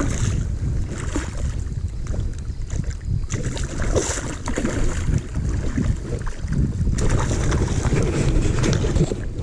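Wind buffeting the microphone as a steady low rumble, with scattered small clicks and knocks of water and gear around the kayak.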